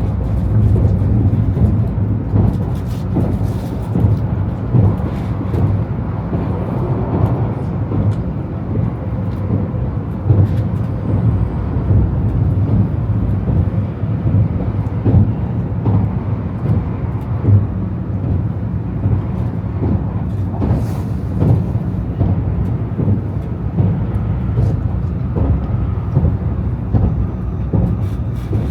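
Shinkansen bullet train running, heard from inside the passenger cabin: a steady low rumble with frequent faint clicks and knocks scattered through it.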